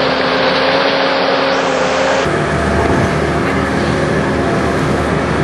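A motor engine running steadily, with a constant hum; its sound shifts to a deeper, rougher drone about two seconds in.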